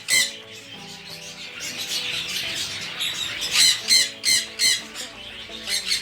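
Aviary parrots squawking repeatedly in harsh, loud calls: one just at the start, a quick run of about four about three and a half seconds in, and a couple more near the end.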